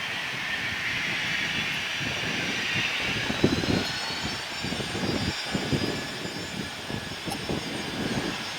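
Cessna Citation XLS business jet's twin Pratt & Whitney PW545 turbofans running: a steady jet hiss with a faint high-pitched whine over it.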